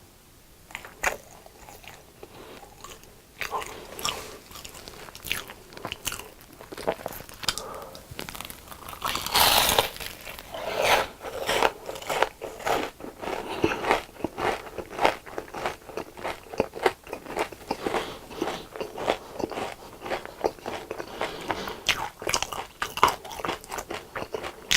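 Close-up mouth sounds of someone biting and chewing crunchy deep-fried food: irregular crisp crunches of breaded batter, with one louder, longer crunch about ten seconds in.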